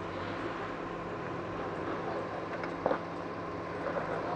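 Off-road vehicle engine idling with a steady hum, and a short knock about three seconds in.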